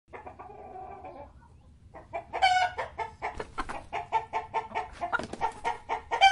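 Chickens clucking: soft clucks at first, then from about two seconds in a fast, louder run of short clucks.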